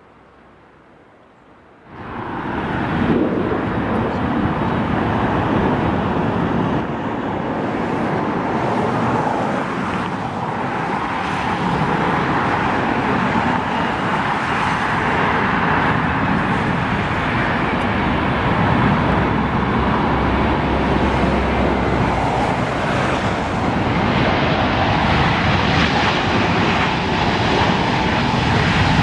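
Jet airliner engines at close range: loud, steady jet noise with a steady whine running through it, starting abruptly about two seconds in.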